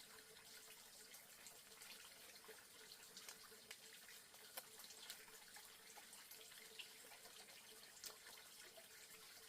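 Near silence: a faint steady hiss with a low hum and a few scattered small ticks.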